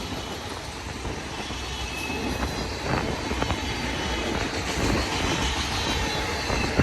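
Heavy manifest freight train rolling past: a steady rumble of wheels on rail, with a few faint, brief wheel squeals.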